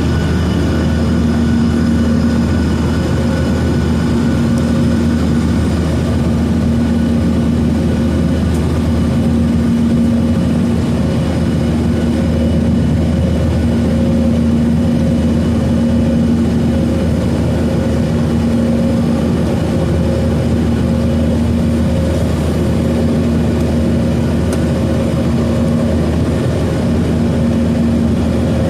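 Boeing 737-900ER's CFM56 jet engines and airflow heard inside the cabin: a steady, loud drone with a low hum that slowly swells and fades.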